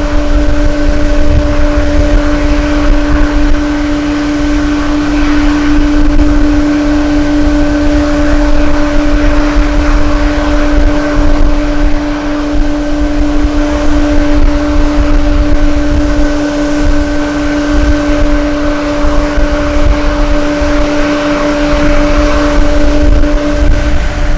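Aircraft jet engine running with a steady, even hum that fades away near the end, heard through strong wind buffeting the microphone.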